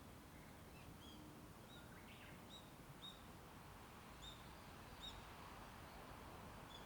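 A small songbird chirping over and over in faint, short, high arching notes, about one every half second to second, with one longer, rougher call about two seconds in. Under it runs a steady low hum of distant traffic.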